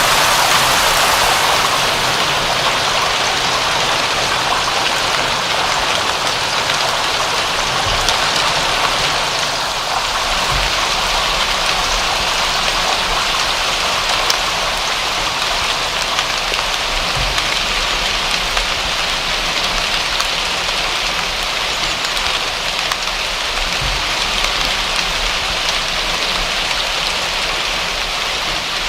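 Steady rainfall, an even hiss of many drops pattering on a surface.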